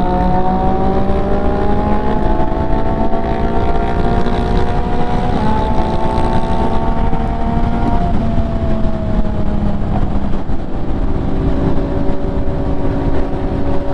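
MV Agusta F3 three-cylinder engine with an aftermarket exhaust, running under way: its note climbs slowly over the first several seconds, holds, then falls away gradually from about eight seconds in, with heavy low wind rush underneath.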